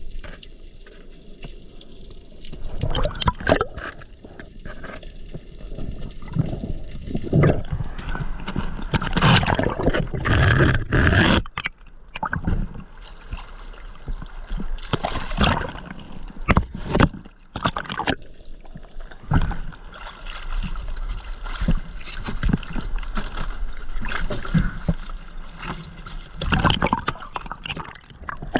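Water splashing and sloshing, with irregular short knocks and splashes.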